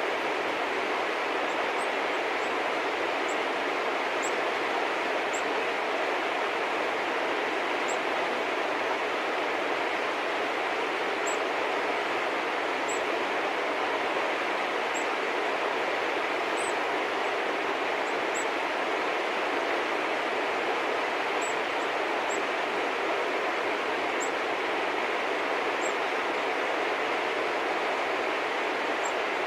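Small birds giving short, very high chirps every second or two over a steady rushing background noise.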